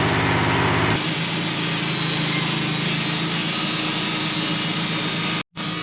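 Band sawmill running, with its engine's steady drone. About a second in, the sound turns brighter and hissier as the blade works through the knotty spruce log. Near the end the sound cuts out completely for a split second.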